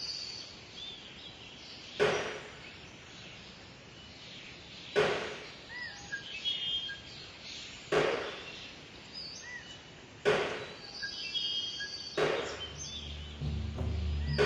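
A wooden baseball bat knocking slowly against a stone wall, five sharp knocks about two to three seconds apart, each with a short ring after it. Birds chirp faintly between the knocks, and low music comes in near the end.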